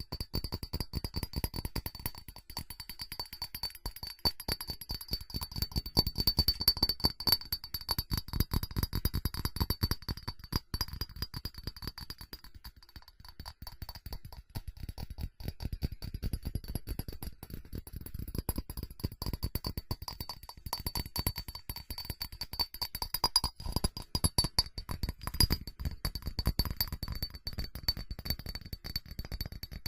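Fast, continuous tapping on a ceramic object, many quick taps a second, with a faint high ringing from the ceramic.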